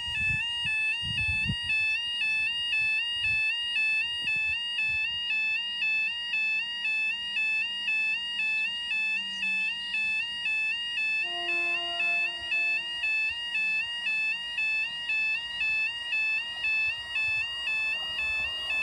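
Level crossing warning alarm sounding its two-tone yodel steadily while the barriers are down, about one warble cycle a second. A shorter, lower steady tone joins it about eleven seconds in.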